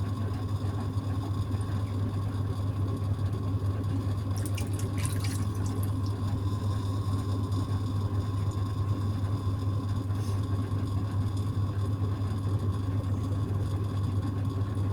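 Electric potter's wheel running with a steady low hum while wet clay is thrown into a cylinder, with faint wet swishing of hands on the clay.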